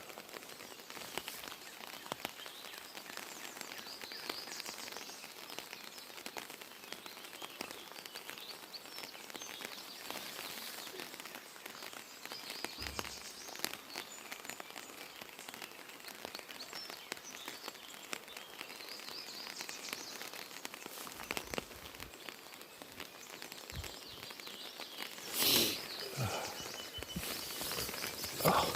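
Light rain falling outdoors, an even patter of drops, with birds chirping now and then. A brief louder noise sounds near the end.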